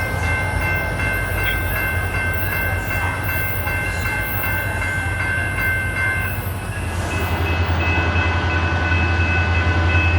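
A diesel train locomotive running with a steady low engine drone and a few steady high-pitched whines; the drone grows stronger about seven seconds in.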